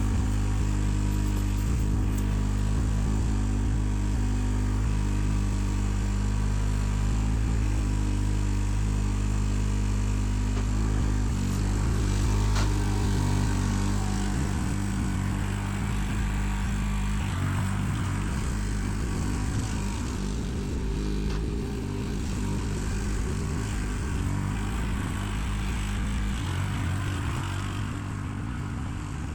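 Backhoe engine running steadily under work. Its note shifts a little past halfway and again near the end.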